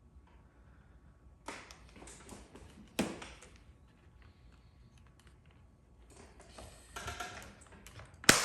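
Dent-repair hand tools working on a car panel: scattered clicks and light taps, with a sharp snap about three seconds in and a louder one near the end.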